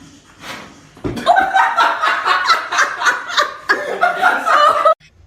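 A person laughing hard in quick, high-pitched bursts, starting about a second in and cutting off suddenly just before the end.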